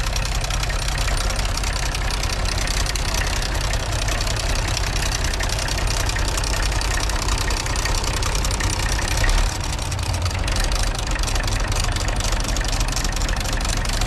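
Tractor engine running steadily, with a brief louder moment about nine seconds in.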